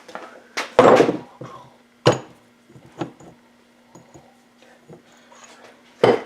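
Knocks and clunks of tools and metal suspension parts being worked on a workbench: the loudest about a second in with a short ring, others near two, three and six seconds in. A faint steady hum runs underneath.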